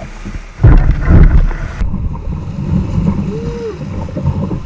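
Rushing river water around a kayak, with wind buffeting the microphone; it comes in suddenly about half a second in.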